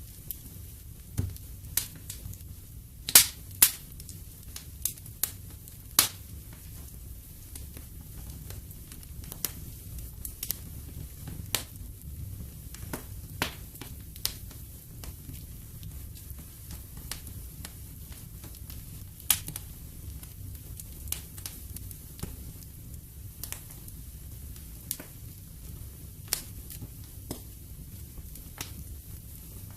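Wood fire crackling in a fireplace: irregular sharp pops and snaps over a low steady rumble of the flames, with a few louder pops a few seconds in.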